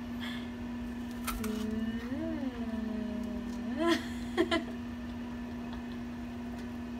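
Steady hum of a kitchen appliance at one pitch. In the middle comes a long whine that rises and falls, and about four seconds in there are a few sharp clicks, the loudest sounds.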